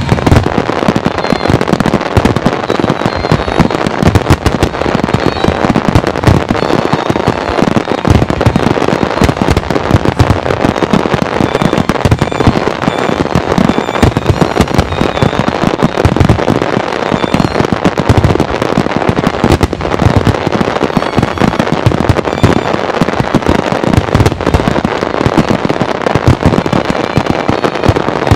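A loud, continuous barrage of aerial firework shells bursting, the bangs overlapping so densely that they never pause.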